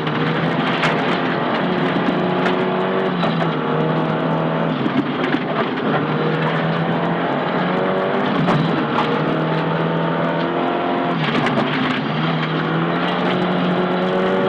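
Nissan Silvia S15 rally car's engine at full stage pace, heard from inside the car: the engine note climbs through the revs and drops at each gear change several times, with scattered sharp knocks and clicks.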